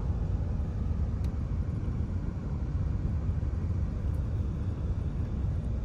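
Steady low rumble of a car driving along: road and wind noise, with no clear engine note.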